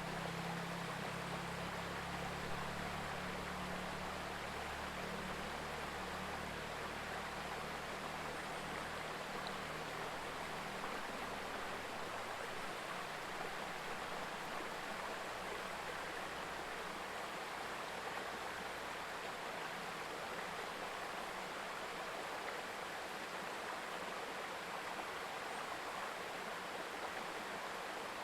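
A mountain river babbling over stones, a steady rushing murmur of running water. A faint low hum sits under it for the first half and then fades away.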